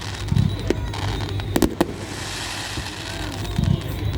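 Fireworks going off: clusters of sharp bangs near the start, about a second and a half in, and near the end, over a steady background of distant bursts.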